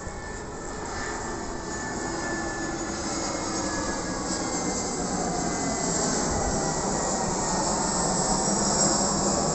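Jet airliner's engines, a steady rushing roar with a faint sliding whine, growing steadily louder as the aircraft approaches.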